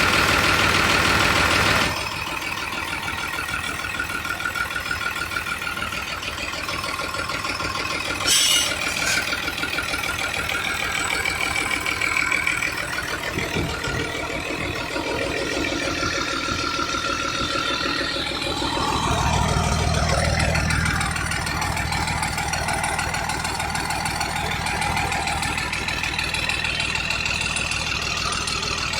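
Vehicle engine running steadily at idle, with a short hiss about eight seconds in. It swells louder for a couple of seconds about nineteen seconds in.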